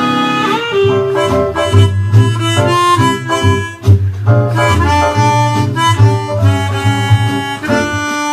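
Harmonica playing a melody over a backing track of guitar and bass.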